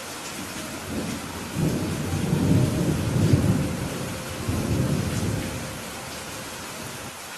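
Steady rain with a low roll of thunder that builds about a second and a half in, peaks around the middle and fades out again.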